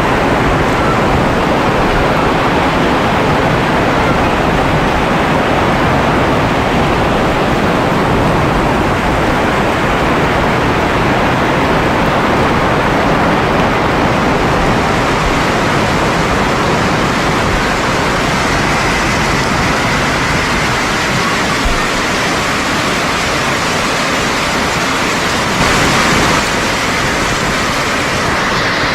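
Heavy rain falling in a steady, dense hiss that turns brighter about halfway through, with a brief louder surge near the end.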